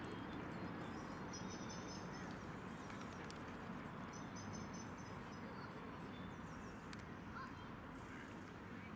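Birds calling over a steady outdoor background noise. Two short, high-pitched trills come about one and a half and four seconds in.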